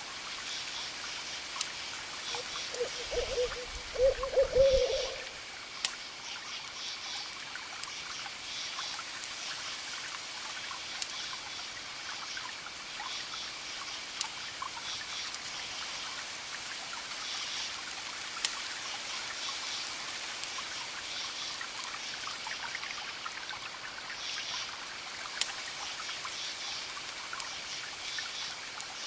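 Campfire crackling with sharp scattered pops while crickets chirp in repeating pulsed groups over a soft wash of distant waves. About three seconds in, a short run of low hoots is the loudest sound, lasting about two seconds.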